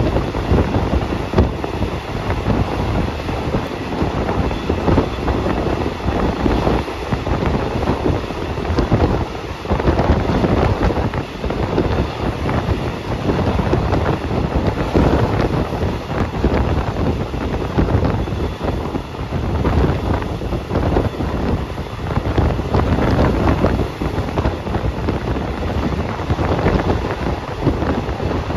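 Passenger train running along the line, heard from on board: a steady rumble of wheels on the rails with irregular clacks, and some wind on the microphone.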